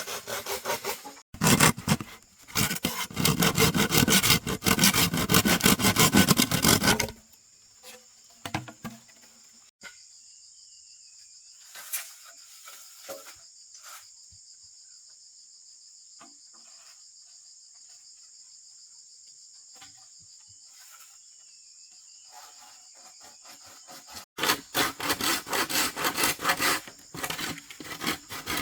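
Hand saw cutting wood in rapid back-and-forth strokes, in two spells at the start and near the end. In the quieter middle, insects (crickets or cicadas) keep up a steady high buzz, with a few light knocks of wood.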